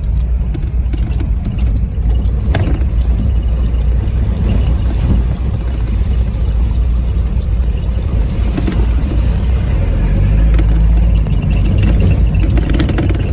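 Off-road vehicle's engine running as it drives, a steady low rumble with scattered knocks and rattles.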